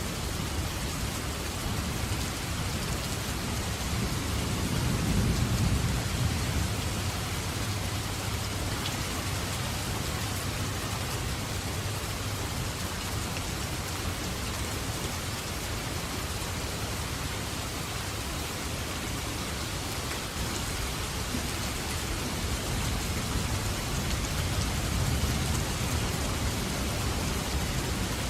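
Steady rain falling, an even hiss, with low rolling thunder swelling about five seconds in and rumbling up again near the end.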